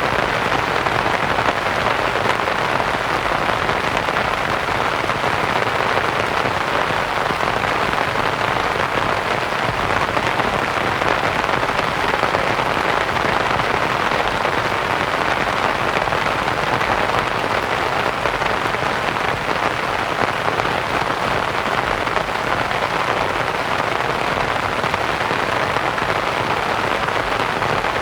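Steady rain falling on a canvas tent, blended with soft white noise: a continuous, even hiss with no separate drops standing out.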